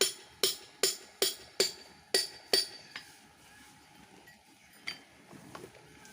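Hammer driving a climbing peg into a large tree trunk: seven quick ringing strikes, about two and a half a second, then one more after a pause.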